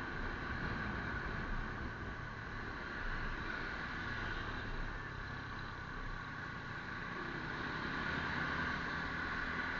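Steady road noise of a vehicle on the move, a low engine rumble under a constant rush.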